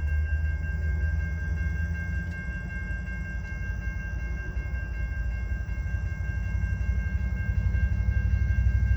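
CN freight train of tank cars passing over a grade crossing, with a heavy low rumble throughout. Several steady high ringing tones sound over the rumble the whole time, as from the crossing's warning bell.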